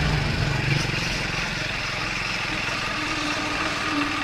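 Triumph Speed 400's single-cylinder engine running as the motorcycle is ridden, heard from the rider's own camera with a steady rush of noise over it; it drops a little in level about a second in and then holds steady.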